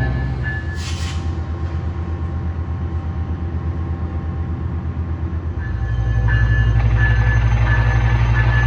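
Diesel locomotive engine running with a steady, rapid low throb and a whine. It grows louder about six seconds in as it works harder. A short hiss comes about a second in.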